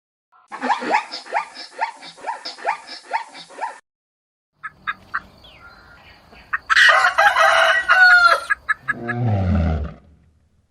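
Chickens calling: a run of quick repeated clucks, then a rooster crowing loudly after a short gap, followed near the end by a low call that falls in pitch.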